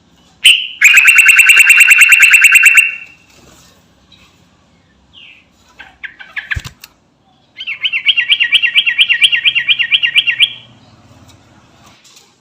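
Yellow-vented bulbul (trucukan) singing in two long, fast rattling trills, one near the start and a longer one past the middle. A few short chirps and a sharp click come between them.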